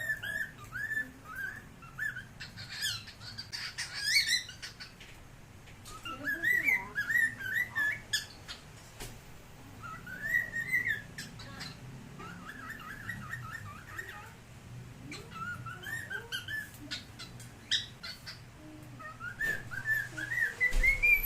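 Cockatiel whistling and singing in short warbling phrases of quick rising and falling chirps, with brief pauses between phrases. The last phrase climbs steadily in pitch near the end.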